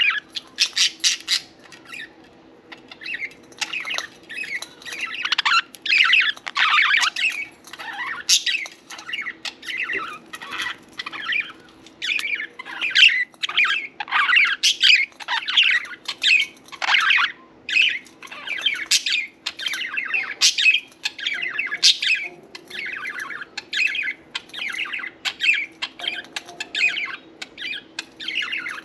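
Pet budgerigars (parakeets) chirping and chattering: a dense, rapid run of short calls, with a brief lull about two seconds in.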